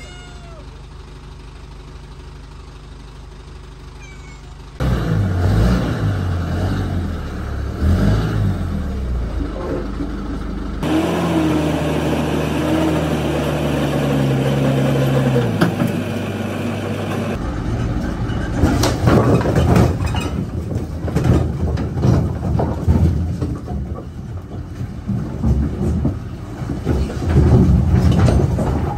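A truck engine running, followed by repeated knocks and clattering as a load of firewood logs comes off the truck.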